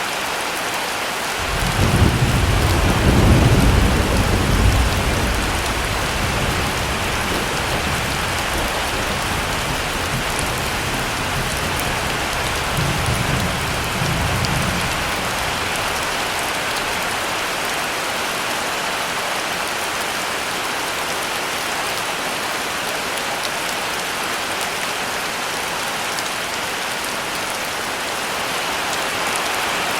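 Heavy rain falling steadily, with a long deep roll of thunder that starts a couple of seconds in, peaks, swells once more and dies away about halfway through.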